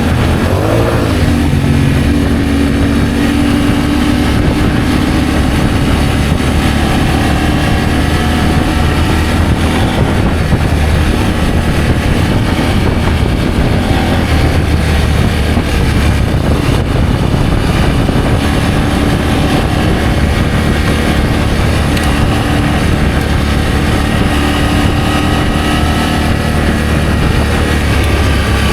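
Adventure motorcycle engine running while riding, its note changing with the throttle about a second in and again later, over a steady loud rumble of road and wind noise.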